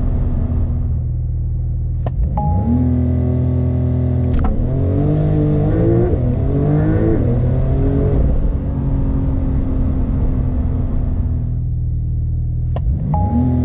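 The 2021 Porsche 911 Turbo S's 3.8-litre twin-turbo flat-six running with a steady note. It gives a sharp click about two seconds in and its pitch climbs, then rises and falls for a few seconds before settling steady again. Another click and climb come near the end.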